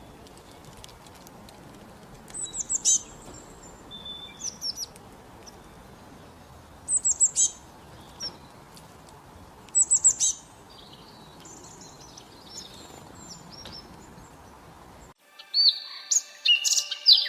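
Small birds chirping in short bursts of rapid, high, down-slurred notes, every few seconds over a steady faint hiss. About fifteen seconds in, the hiss cuts out and a run of clearer, higher tonal notes begins.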